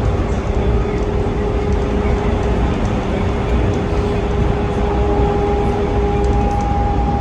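Inside a moving PHX Sky Train automated people-mover car: a steady low rumble of the car running along its guideway, with a steady motor whine throughout and a second, higher whine joining about four seconds in.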